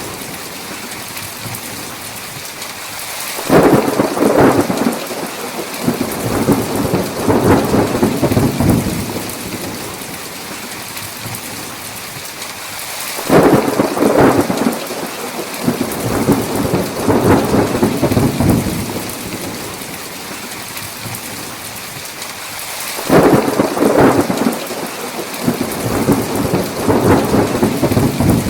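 Heavy rain falling steadily, with thunder rolling three times: each peal starts suddenly and rumbles on for about five seconds, roughly ten seconds apart.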